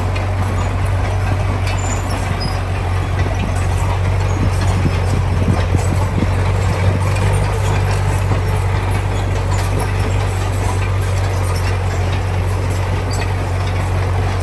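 Heavy diesel construction machinery running steadily, a constant low engine hum with a rough mechanical noise above it and a few faint knocks.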